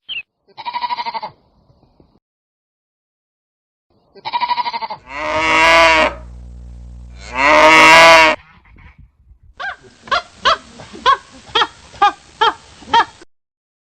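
Farm animals bleating. There is a short bleat near the start, two long, loud bleats around the middle, and then a run of about a dozen short, evenly spaced calls.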